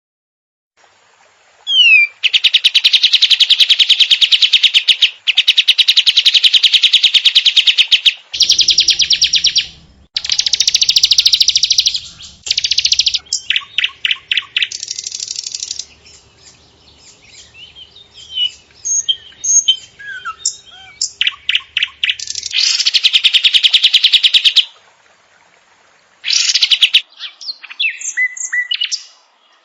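A songbird masteran mix of cucak jenggot, ciblek, canary and sikatan londo song. Long, very fast, buzzy trills in blocks of a few seconds alternate with short chirps and whistles.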